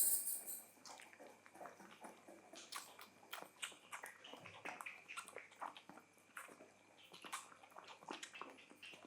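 Two-week-old Labrador puppy suckling milk from a feeding bottle: faint, irregular wet clicks and smacks of its mouth on the teat. A short louder scuffle at the very start.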